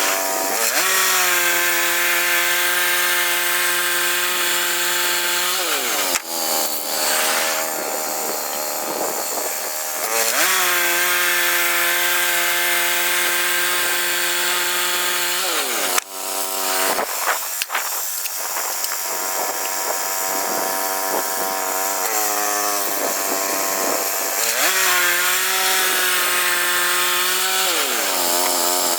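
Gas engine of a Woodland Mills HM122 portable bandsaw sawmill running at high speed while the blade saws through a log. The engine speed drops and rises again three times, with rougher noisy stretches between the steady runs.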